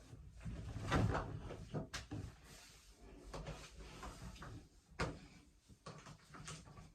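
Faint rustling and knocking in a small room, with two sharp clicks about two and five seconds in.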